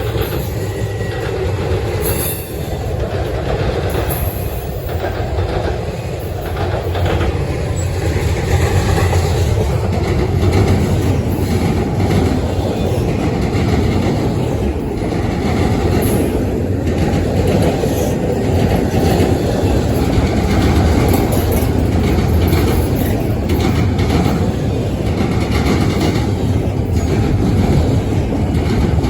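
Norfolk Southern freight train rolling past, its wheels clattering over the rail joints in a steady rumble that grows louder about ten seconds in.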